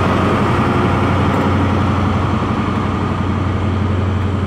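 Diesel engine of a Class 43 HST power car pulling a departing InterCity 125 away from the platform: a steady low engine hum with a broad rumble, easing slightly toward the end.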